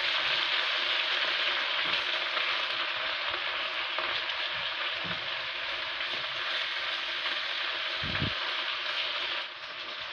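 Sliced onions with chopped garlic and ginger sizzling in hot oil in a karahi, stirred with a wooden spoon. The sizzle drops off a little about nine and a half seconds in.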